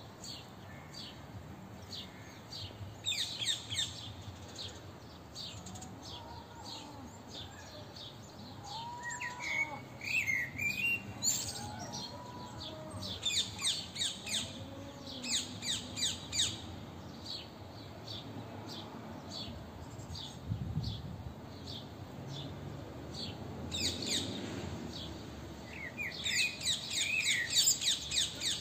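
Wild birds chirping in a daytime chorus: bursts of rapid, high, short chirps that come and go in clusters, loudest near the end, with fainter lower calls between them.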